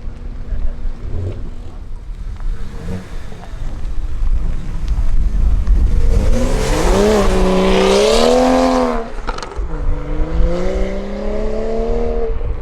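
A performance vehicle's engine revving hard as it accelerates: the pitch rises and wavers for about three seconds in the middle and cuts off sharply, then climbs again in a slower pull near the end, over a steady low rumble.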